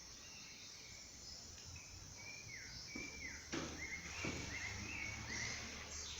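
Birds chirping outside, with short calls and two falling whistles, over a steady high insect hiss; a few light knocks about halfway through.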